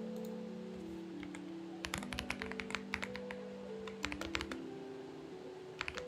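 Typing on a Xinmeng X98 mechanical keyboard: a quick run of keystrokes from about two seconds in, a pause, then typing again near the end, over soft background music with long held notes.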